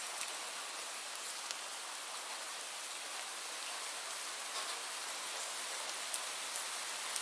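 Steady rain falling on a surface: an even hiss with scattered individual drops ticking sharply, a few louder ones near the end.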